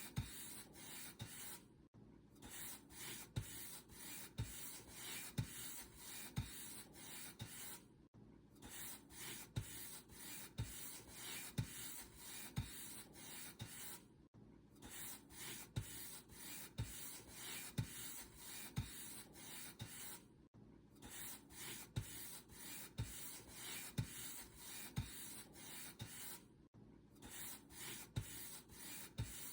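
Paint brush bristles stroking across a surface: a quick, even series of scratchy brush strokes, each with a soft low thump. A brief silent gap breaks the strokes about every six seconds.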